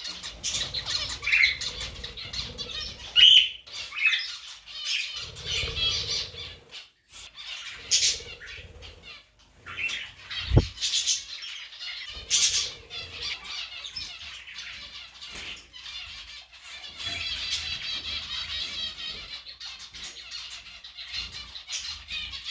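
Birds chirping and squawking in short calls throughout, with stretches of fluttering and a single short knock about ten and a half seconds in.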